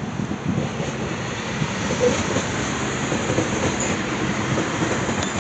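Red two-car DB class 642 Siemens Desiro diesel multiple unit passing close by: a steady rush of wheel and rail noise mixed with its engines.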